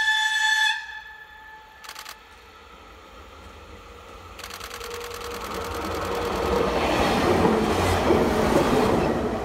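Diesel railcar (HLB VT 2E) approaching round a curve and passing close by, its running noise building to a peak near the end with a steady tone underneath. A brief steady tone sounds at the very start.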